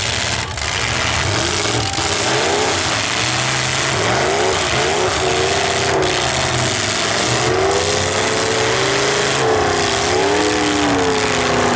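Several full-size stock demolition derby cars' engines revving hard, their pitches rising and falling against one another over a steady wash of noise.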